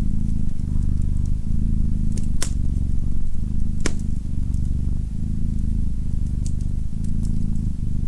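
Domestic cat purring close up: a steady low rumble that swells and breaks with each breath, about once a second. A few sharp crackles from a wood fire, the two loudest about two and a half and four seconds in.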